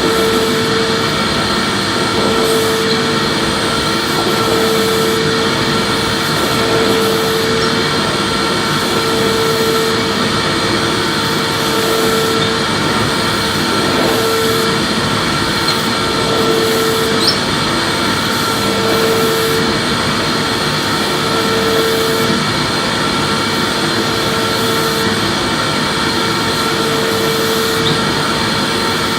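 Electric vacuum cleaner running continuously while vacuuming, a steady whooshing drone with a tone that swells and fades about every two seconds as the nozzle is pushed back and forth.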